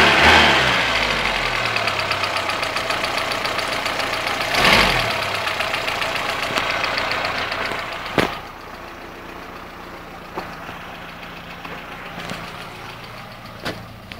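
Wartburg 1.3's four-cylinder petrol engine idling after a rev, with one short blip of the throttle about four and a half seconds in. About eight seconds in there is a sharp click, and the sound drops to a quieter, steady low hum broken by a few faint clicks.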